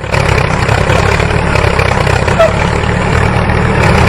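Small motor of a DIY mini tractor running steadily, a continuous low mechanical drone.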